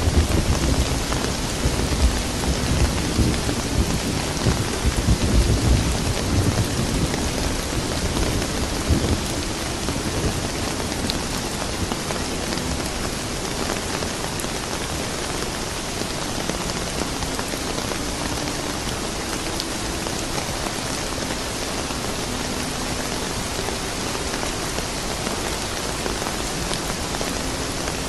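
Steady rain with a long roll of thunder rumbling deep and loud through roughly the first nine seconds, then fading to rain alone.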